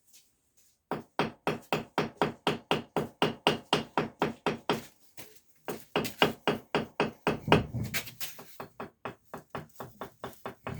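Rapid, regular hammer taps on brickwork, about five a second, in two runs with a short pause about five seconds in.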